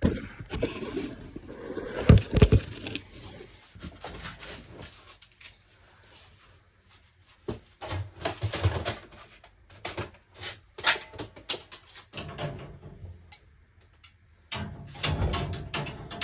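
Irregular knocks, clicks and clatter of things being handled in a small room, with two heavier thumps about two seconds in and a burst of rustling and knocking near the end.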